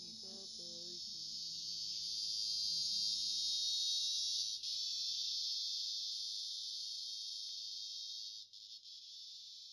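Cicada buzzing: a steady high-pitched drone that swells for about four seconds and then slowly fades. The song's last guitar notes die away during the first two seconds.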